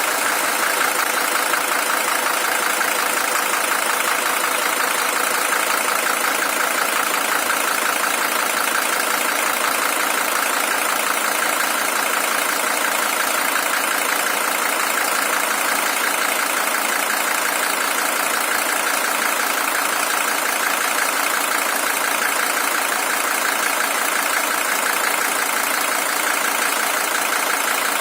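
Mercedes-Benz W123 300TD's OM617 five-cylinder diesel engine idling steadily, with a fast, even clatter. It is the original engine, at 620,000 km.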